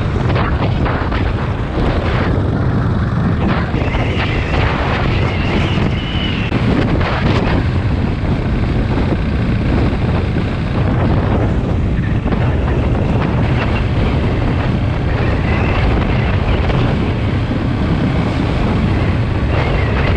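Heavy wind buffeting the microphone of a motorcycle riding at speed, with the KTM Duke 690's engine running steadily underneath.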